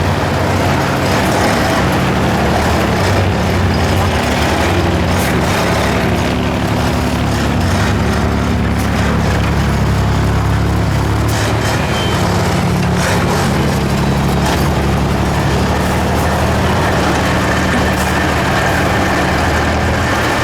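Heavy 6x6 trial truck's engine running steadily under load, its pitch shifting a little, with a few scattered clicks and knocks.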